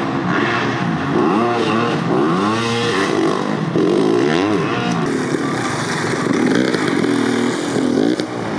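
Dirt bike engines revving, their pitch rising and falling in quick repeated swoops, with more than one bike heard at once.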